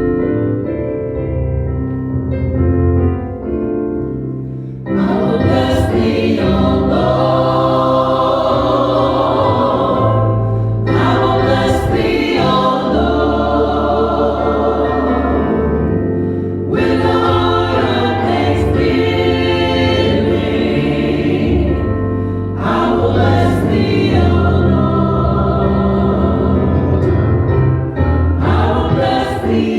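Gospel choir singing in phrases with keyboard and bass accompaniment, after a few seconds of instrumental opening.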